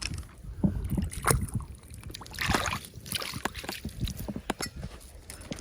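Water sloshing and splashing, with scattered sharp clicks and knocks of stones and gravel being handled, and a louder splash about two and a half seconds in.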